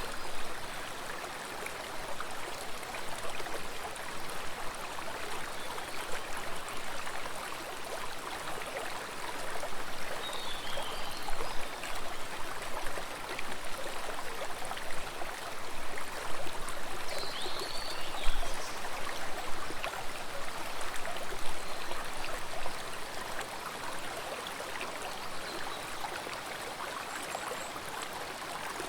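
Flowing water of a stream running steadily with a rushing, splashing hiss. Two faint high chirps sound briefly partway through.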